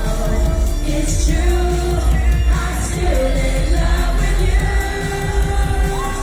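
Live dance-pop music from a concert: a sung melody with long held notes and pitch glides over a loud, heavy bass beat.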